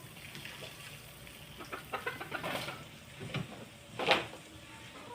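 Desi (country) chickens clucking in short, scattered calls, with one louder, sudden sound about four seconds in.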